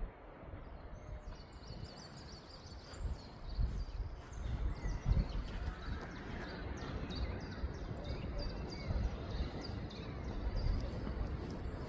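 Small birds chirping over and over in short calls, above a low, uneven rumble that swells and fades.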